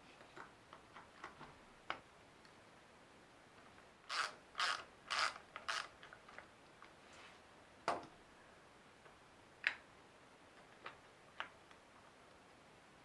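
Hand-tool work on wood: scattered light clicks and knocks, then a run of four short scraping strokes about two a second, followed by a single sharper knock.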